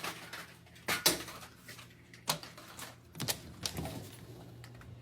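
A door being unlocked and opened: a handful of sharp clicks and knocks from the lock and latch, the loudest about a second in, more at roughly two and three seconds.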